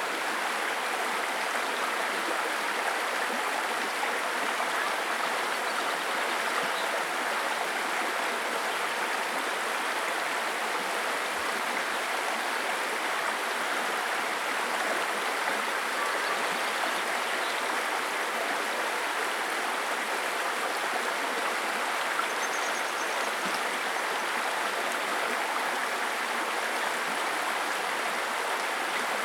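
Babbling brook: stream water running steadily, an even rushing burble with no pauses.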